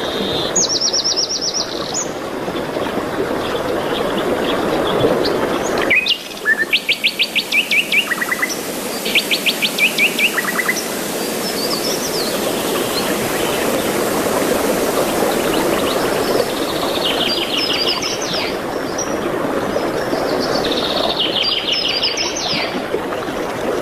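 Songbirds singing short, rapid trills of evenly repeated notes, one phrase every few seconds, over a steady background hiss.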